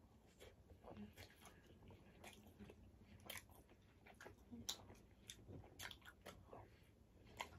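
Faint chewing of fried chicken wings, with soft, irregular mouth clicks and smacks.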